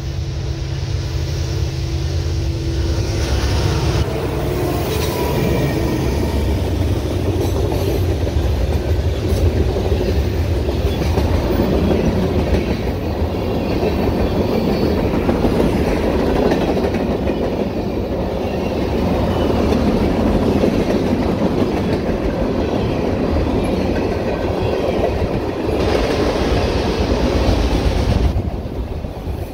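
Norfolk Southern manifest freight train passing, its cars rolling steadily over the rails. A steady low tone in the first few seconds gives way to continuous wheel-on-rail noise.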